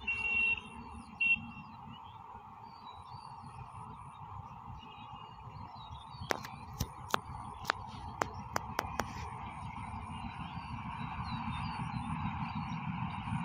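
Open-field ambience with birds chirping over a steady distant rumble that grows louder toward the end as a train approaches. Two short high-pitched tones near the start and a quick run of sharp clicks about halfway through.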